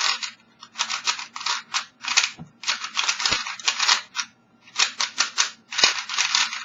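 Type A5 (Alpha 5) plastic 3x3 speed cube being turned fast, in quick runs of rapid clacking clicks with short pauses between them.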